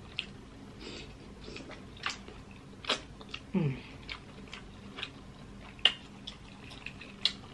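Close-miked chewing of seafood, with scattered wet mouth smacks and small clicks, and a brief low hum of the voice about three and a half seconds in.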